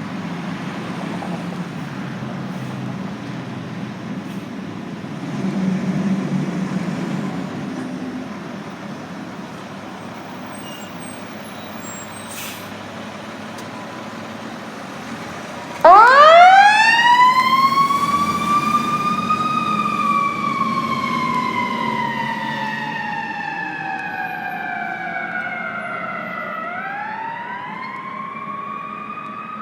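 Fire engine siren starting suddenly about halfway through, climbing quickly to a high wail, then slowly falling in pitch and rising again near the end. Before it, a steady rumble of the truck's engine and road noise.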